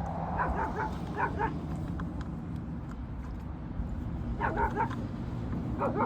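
A dog yipping and whining in short high cries, in two clusters a few seconds apart.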